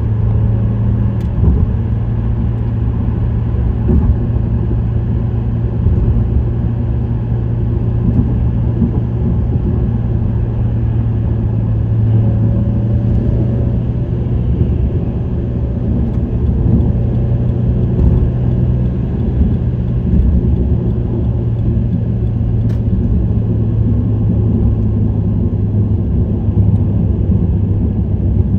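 Subaru WRX STI (VAB) with an STI Performance muffler cruising at a steady speed. Its turbocharged flat-four's exhaust drone holds one steady low pitch over a constant road rumble.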